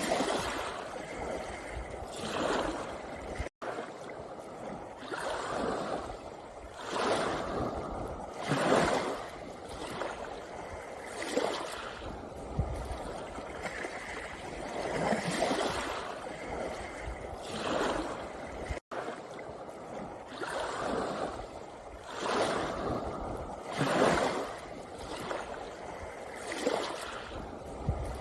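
Sea waves washing over a pebble beach, each wash swelling and fading every two to three seconds. The sound cuts out for an instant twice.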